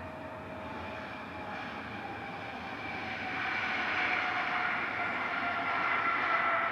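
Jet airliner's engines passing, a whine with several tones sliding slowly downward over a steady rush, growing louder about halfway through.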